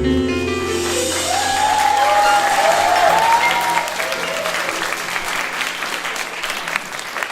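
A live band's final chord rings out over a held low bass note while an audience applauds and whoops. The applause slowly fades near the end.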